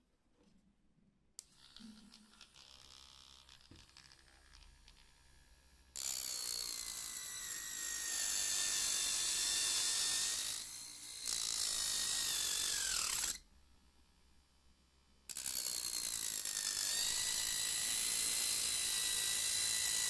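Small electric motor of a homemade mini drill running at speed with a steady high whine, twice. The first run is about seven seconds and winds down in pitch as it is switched off. The second starts a couple of seconds later and lasts about five seconds.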